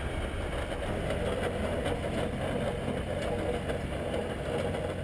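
An engine running steadily at an even pace.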